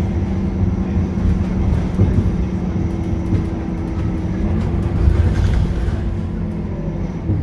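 Scania K230UB bus's five-cylinder diesel engine and ZF automatic gearbox running under way, a steady low drone.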